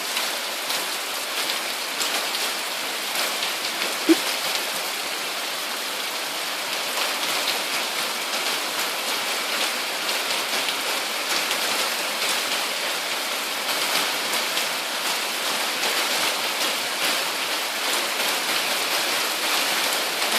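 Steady rain falling, a constant hiss speckled with the patter of many drops on surfaces, with a single small knock about four seconds in.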